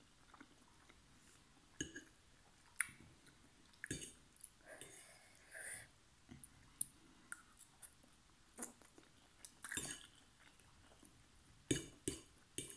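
Quiet close-up chewing and slurping of noodles: scattered short wet clicks and smacks, with a longer slurp about five seconds in.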